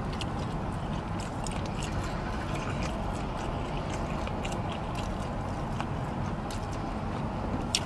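A man chewing food close to the microphone, with a few faint clicks, over a steady low hum inside a car.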